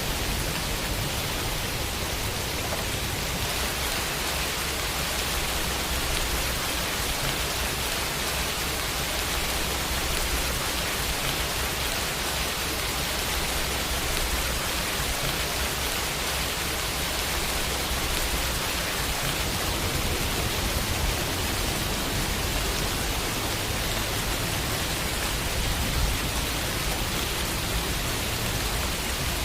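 Steady, even rain falling on a window pane.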